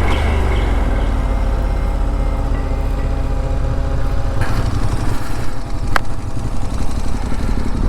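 Motorcycle engine running steadily while riding, with a strong low rumble; a single sharp click about six seconds in.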